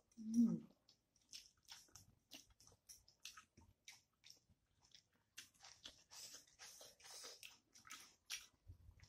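Close-up eating sounds: chewing and mouth smacks from a person eating rice by hand, a string of short wet clicks, with a brief hummed sound just after the start.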